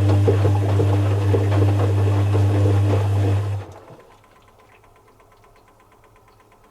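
Zanussi FC1000 compact washing machine running with a loud, steady low hum and a light clatter, which cuts off abruptly about three and a half seconds in, leaving only a faint quick ticking.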